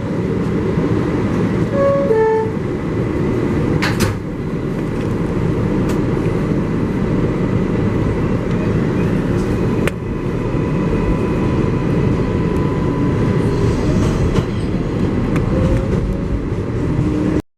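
Inside an R188 subway car as a 7 train pulls out: the door-closing chime sounds as a short descending run of tones about two seconds in, then the train runs with a steady rumble and sharp clicks from the rails. The sound cuts out abruptly at the very end.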